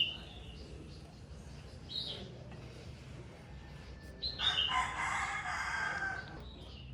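Birds calling: short high chirps near the start and about two seconds in, then one louder, longer call lasting about two seconds, starting a little past four seconds in.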